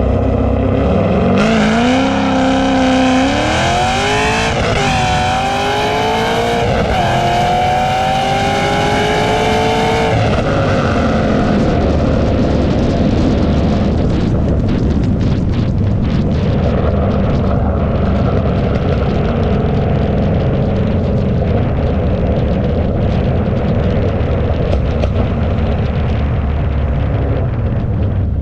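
A drag-racing car accelerating hard off the line, its engine pitch climbing steeply, dipping once at a gear change and climbing again. The engine fades away after about ten seconds, leaving a low, steady engine rumble.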